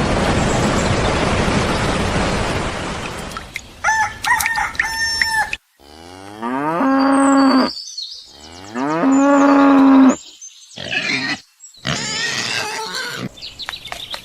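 A steady rushing noise for the first few seconds, then chicken calls and two long cow moos, each rising and then held, one after the other. The sounds are spliced with abrupt cuts between them.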